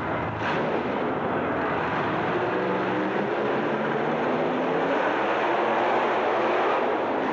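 Loud, steady running of a racing truck's engine, heard through dense noise.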